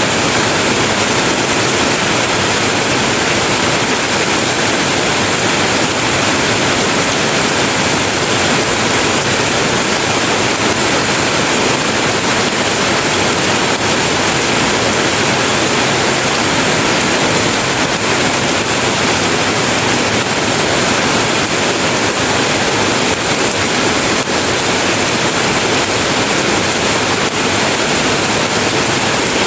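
Heavy rain falling steadily: a loud, even hiss that does not change.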